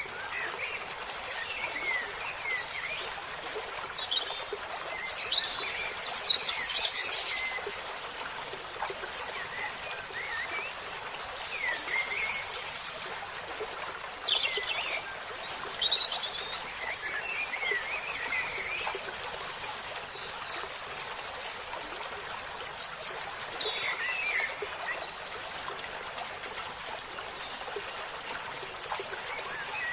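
Running stream water with wild birds chirping and calling now and then over it, in short rising and falling notes.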